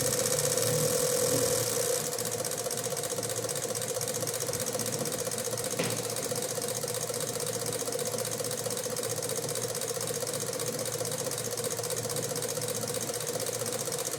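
Nissan Tsuru's electric radiator cooling fan running with a steady whir, dropping a little in level about two seconds in, with one brief click near the middle.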